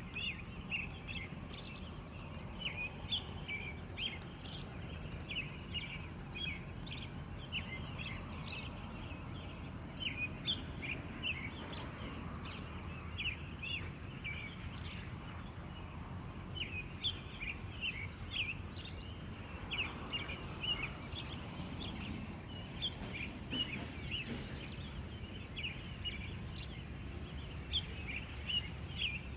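Early-morning chorus of wild birds: many short chirps overlapping continuously, with a couple of brief higher trills. Under them runs a steady high insect trill, like crickets, over a low rumble of outdoor background noise.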